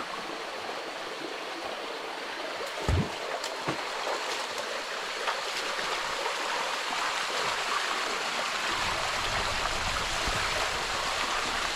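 River water rushing and splashing over rocks in a steady wash, with a deeper rumble joining in the last few seconds and a single knock about 3 seconds in.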